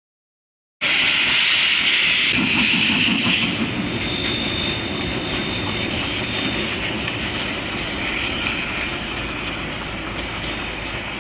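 Train rolling by on the rails, a loud steady clatter and rush that starts abruptly about a second in and slowly eases. A thin high squeal is held for a couple of seconds midway.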